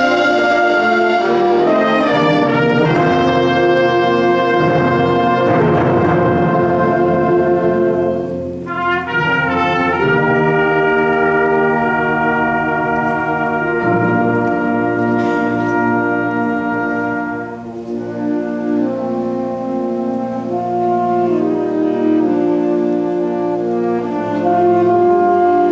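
Large instrumental ensemble playing a piece live, with brass to the fore in long held chords. The sound drops briefly about eight and a half seconds in and again near eighteen seconds, then swells back.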